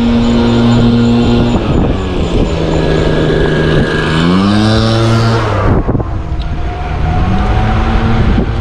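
A petrol leaf blower's small engine running, its pitch dropping and then rising as it is throttled, over the steady rush of wind and tyres.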